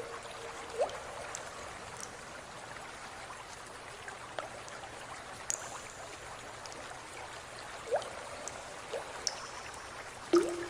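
Steady trickle of running water with a few scattered drips and short rising plops; the loudest plop comes near the end.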